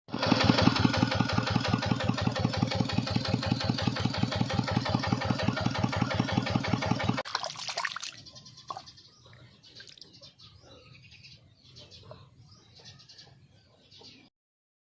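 Tractor engine running a water pump, a steady rapid chugging of about eight beats a second, which cuts off suddenly about seven seconds in. After it, faint scattered chirps and ticks.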